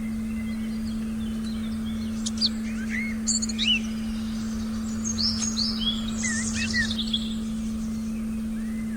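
Wild birds chirping and calling in a forest recording, a cluster of short whistled notes between about two and seven seconds in, over a steady low electronic tone that holds one pitch throughout.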